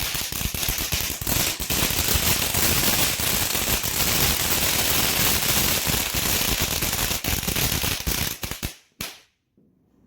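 Fountain firework spraying sparks with a hissing rush and dense, rapid crackling. It sputters out near the end, with one last short burst.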